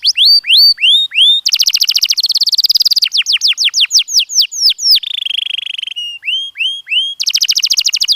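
Domestic canary singing a continuous song. It switches every second or so between phrases: runs of upward-sweeping whistled notes, very fast trilled rolls and a buzzier roll, each phrase a string of quickly repeated notes.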